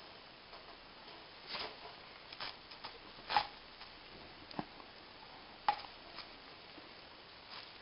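Irregular light clicks and taps of small metal parts being handled during valve work on a Peugeot 206 1.1 petrol cylinder head, a few seconds apart, the sharpest a little over three seconds in.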